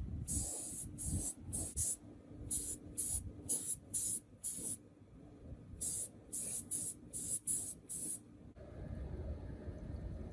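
About fifteen short hissing spurts from a pressurised spray nozzle, coming in quick groups. They stop about 8 seconds in, and a steady low hum takes over.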